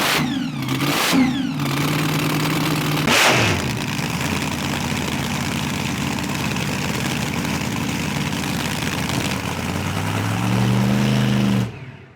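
Nitro drag car engine being fired up: a few sharp throttle blips in the first few seconds, then a steady idle, revving up again near the end before the sound cuts off.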